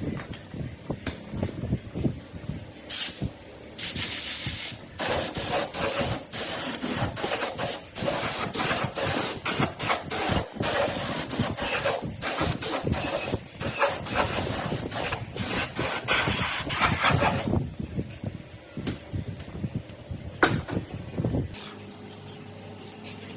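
Bursts of hissing spray from a compressed-air tool, starting about three seconds in and running with short breaks until near the end, when it stops and quieter low clatter remains.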